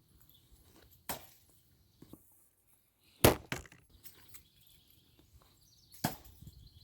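Three sharp knocks a couple of seconds apart, the middle one the loudest: throwing axes from an axe-throwing lawn game striking the target.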